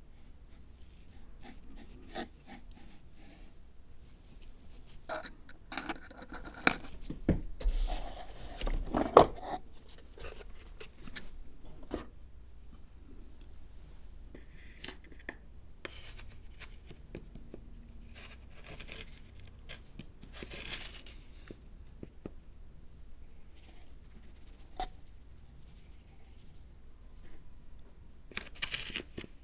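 Hand-crafting noises from building a miniature zen dry-garden diorama: scattered rustles, scrapes and tearing sounds with a few sharp taps, the loudest a little after halfway through the first third.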